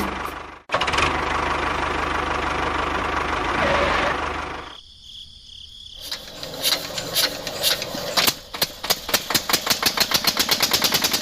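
An engine running steadily, then dropping away. About six seconds in, a fast rhythmic knocking starts and speeds up.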